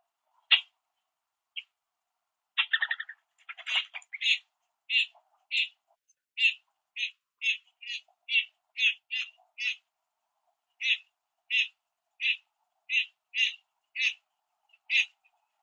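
A small bird chirping over and over, short high single notes about one or two a second. There is a quick flurry of notes about three seconds in and a brief pause near the middle.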